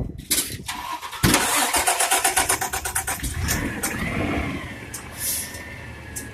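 CNG-powered garbage truck engine starting: a sudden loud start about a second in with rapid even pulsing, then running with a whine that rises and falls, and a few short hisses.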